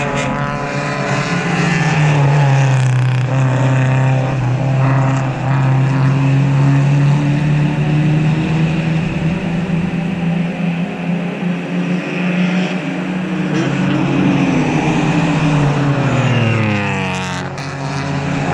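Race car engines running hard as cars drive past the corner, their pitch rising and falling with gear changes and dropping as they pass.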